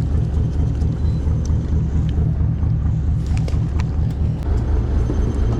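Boat engine running steadily under way: a loud, even low rumble.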